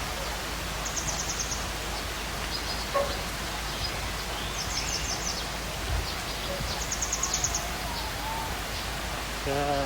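Steady outdoor background noise with short, high, rapid chirping trills repeating every couple of seconds. Near the end a cow begins to moo.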